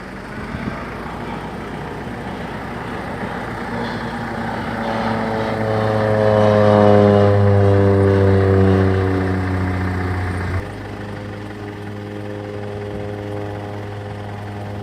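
Crop-spraying airplane's propeller engine passing low, growing louder and then falling in pitch as it goes by. About ten seconds in the level drops suddenly, leaving a steadier, quieter engine drone.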